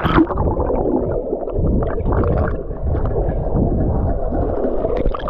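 Muffled underwater rumble and gurgling of sea water picked up by a waterproof GoPro held beneath the surface. It starts abruptly as the camera goes under.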